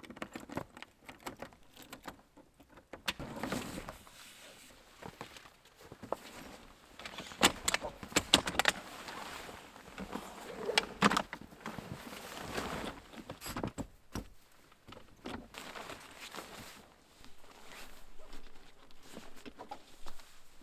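Irregular clicks, clinks and knocks with rustling, like small objects and gear being handled, a few sharper knocks around the middle.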